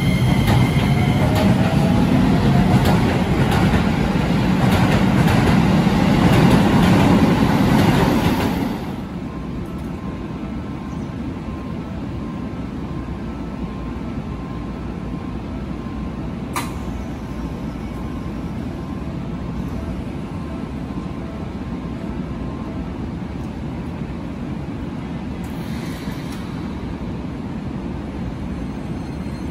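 Keisei 3000-series electric commuter train running along the platform, wheels and running gear loud, until the noise drops off suddenly about nine seconds in. After that the train stands at the platform with a steady hum from its equipment, broken by one sharp click about halfway through.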